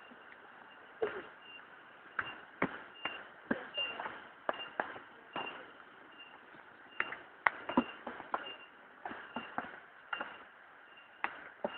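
Irregular sharp taps and knocks, one or two a second, over a faint repeated high chirp.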